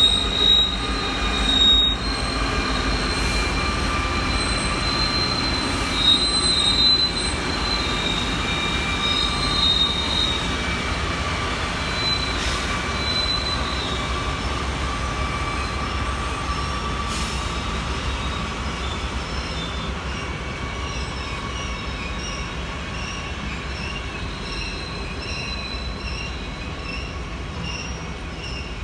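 Freight train rolling by with its wheels squealing: several high, wavering squeal tones over a low rumble. Later the squeal breaks into short, regular chirps as the sound slowly fades.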